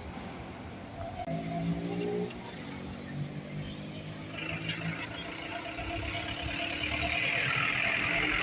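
Bus engine running, its steady hum starting about a second in, with the vehicle noise growing louder toward the end.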